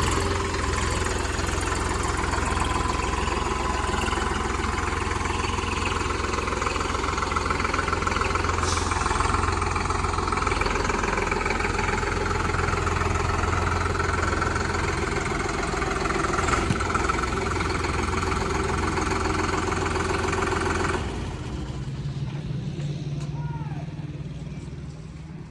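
Solis Yanmar 5015 tractor's diesel engine running steadily, then dropping away sharply about 21 seconds in to a quieter low hum.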